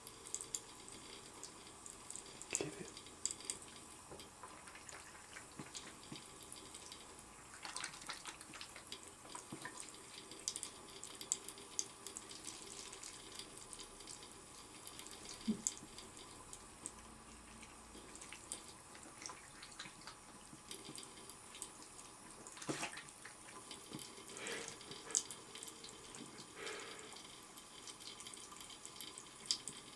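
Tap water running steadily into a sink, broken by irregular splashes and small knocks as cats paw and bite at the stream.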